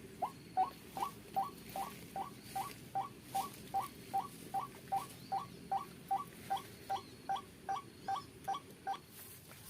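White-breasted waterhen calling: a steady run of short rising notes, about two and a half a second, that stops about nine seconds in.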